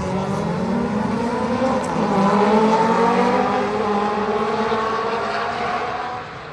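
Rallycross race car engines revving hard, the pitch rising and dropping with throttle and gear changes as the cars pass close, then fading away near the end.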